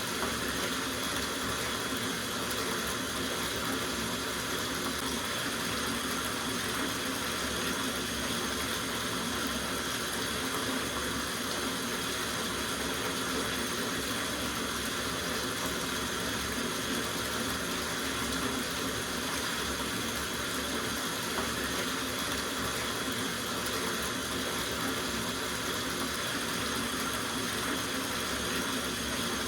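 Water running from a tap into a soaking bathtub, a steady splashing rush that does not change.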